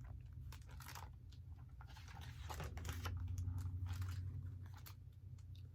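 Paper rustling and crinkling with scattered light clicks, as a page of a picture book is handled and turned, over a low steady hum.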